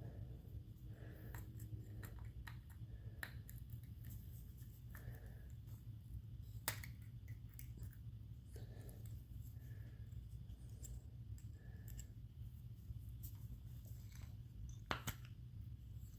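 Faint, scattered metal clicks and scraping of small pliers picking at an O-ring seated in the lever bore of a Tuff Torq K91 transaxle case, over a low steady hum. The sharpest clicks come a little before halfway and again near the end.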